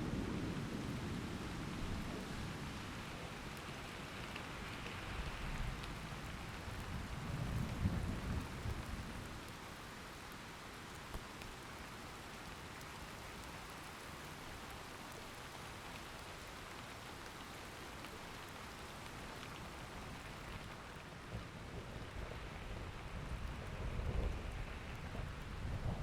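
Steady rain falling, with low thunder rumbling: a fading roll at the start, another around a third of the way in and more building near the end.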